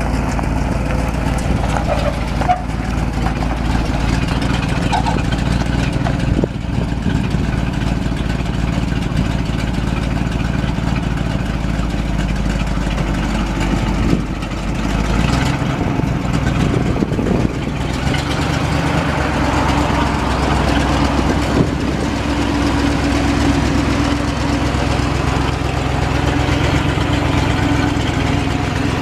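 Engine of a 1968 Chevrolet 60 grain truck running steadily. About halfway through the sound briefly dips and changes, then settles into a new steady note with a stronger mid-pitched hum.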